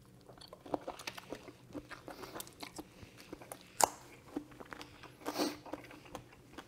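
A person chewing a mouthful of shrimp and zucchini noodles, with small irregular wet mouth clicks and crunches and a sharper click about four seconds in.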